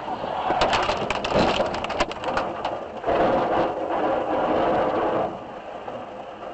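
Vehicle collision: a quick run of cracking, crunching impacts over about two seconds, then a steadier scraping noise that fades out near the end.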